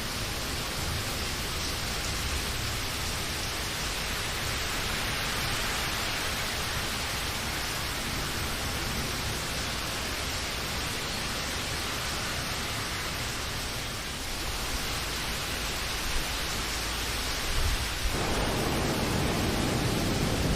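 Steady rain, an even rushing hiss with no separate drops standing out. About 18 seconds in, a fuller, deeper layer of rushing sound comes in and stays.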